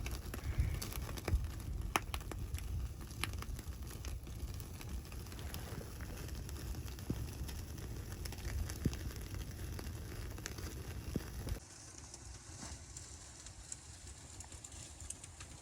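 Wood fire crackling, with scattered sharp pops over a low rumble; about twelve seconds in it cuts abruptly to a quieter steady hiss.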